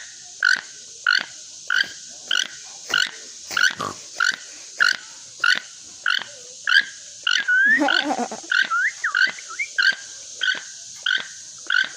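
A toucan calling in a steady series of short, hoarse, yelping croaks, about three every two seconds. About two thirds of the way through, other gliding whistles and squawks overlap the series.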